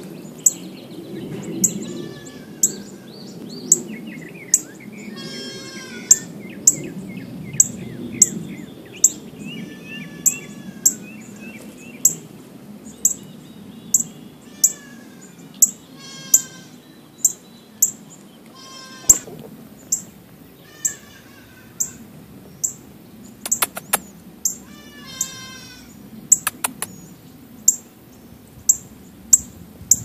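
Birds calling: a sharp, high chip repeated a little more than once a second, over whistled, slurred phrases and short runs of quick notes.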